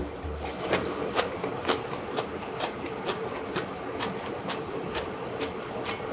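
Chewing a mouthful of crisp stir-fried cabbage and bean sprouts, with a sharp crunch about twice a second: the vegetables are still crunchy, not soggy.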